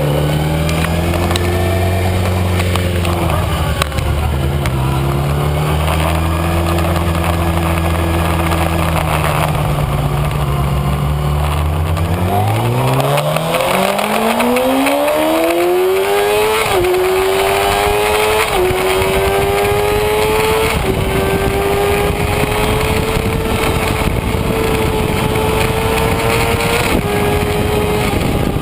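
Kawasaki Ninja ZX-6R's inline-four engine heard from on board, holding low, steady revs, then accelerating hard from about twelve seconds in. The pitch climbs quickly and then steps down briefly at each of several upshifts.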